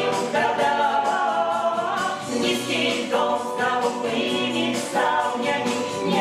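A small group of voices singing together in several parts.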